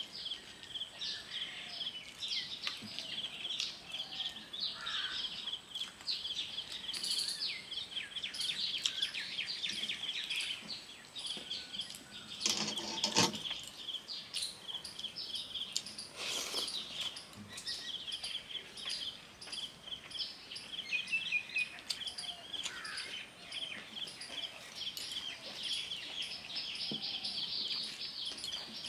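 Birds chirping: a dense, rapid run of high chirps that keeps going steadily, with two brief louder noises, one a little before halfway and another a few seconds later.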